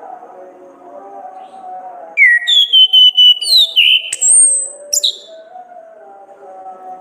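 Orange-headed thrush (anis kembang) singing one loud phrase of clear whistled notes that glide up and down, starting about two seconds in and lasting about three seconds. Soft, steady music plays underneath.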